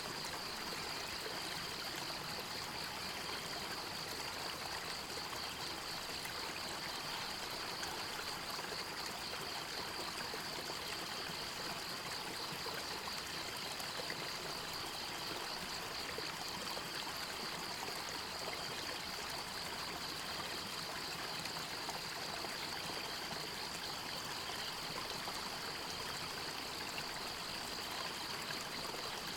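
A forest river or stream running steadily. Over it is a continuous high-pitched trill that pulses rapidly and evenly.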